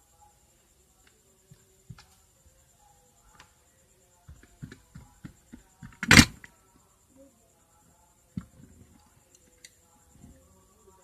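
Light knocks and clicks from handling an electric clothes iron and its plug, with one loud, sharp knock about six seconds in and another knock a couple of seconds later.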